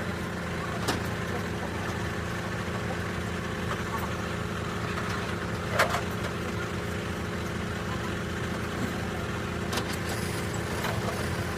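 An engine idling steadily with a low, even hum, broken by a few short knocks, the loudest about six seconds in.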